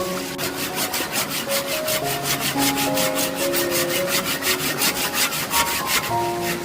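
Hand saw cutting wood in quick, even rasping strokes, about six a second, stopping near the end, over soft instrumental music.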